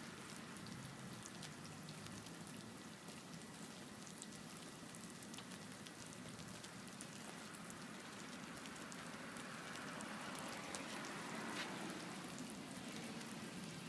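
About a thousand candles and their melted wax burning on a cake, a faint steady sizzle with fine crackles throughout.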